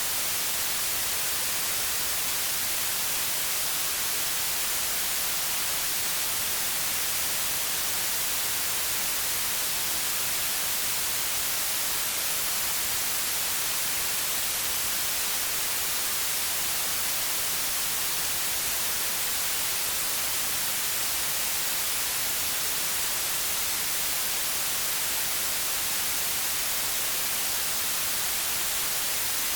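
White noise: a steady, even hiss, brightest in the high end, unchanging throughout.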